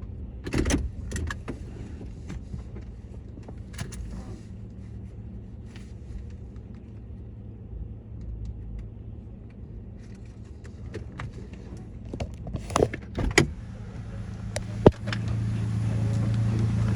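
Car wash tunnel machinery: a low steady hum with scattered knocks and clunks, the sharpest a single hit about fifteen seconds in, just as a louder motor hum comes on.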